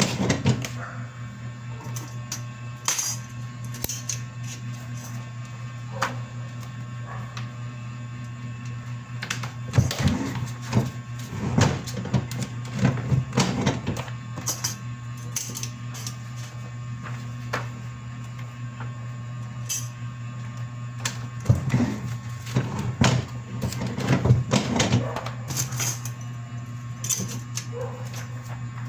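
Steady low machine hum with irregular clicks, clacks and knocks of objects being handled, coming in busy clusters.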